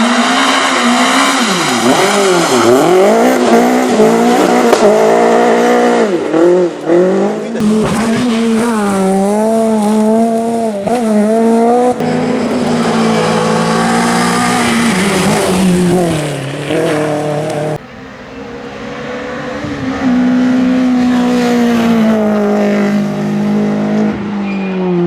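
Renault Clio rally cars at full throttle on a stage, engines revving high and dropping sharply on each gear change, in several short passes joined by abrupt cuts.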